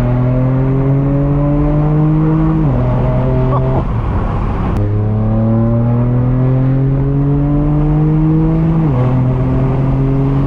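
Straight-piped BMW M4 F82's twin-turbo inline-six pulling hard under acceleration, its note climbing steadily and dropping sharply with a quick upshift about two and a half seconds in. It cuts out briefly near four seconds, then climbs again to another upshift near nine seconds.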